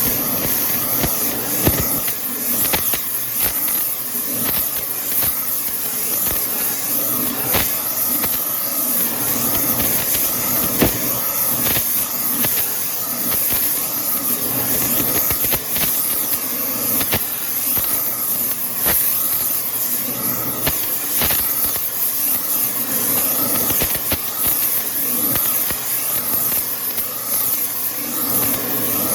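Electric arc welding building up the scored bearing bore of a truck wheel hub: a steady crackling hiss with irregular sharp pops throughout.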